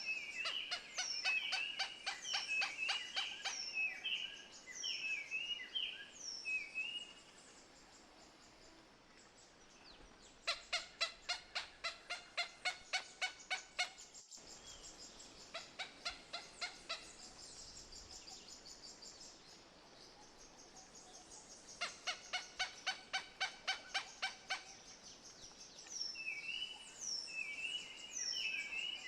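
Birds calling: repeated downslurred whistled notes, and three bursts of a rapid cackling series of harsh notes at about four a second, each lasting a few seconds.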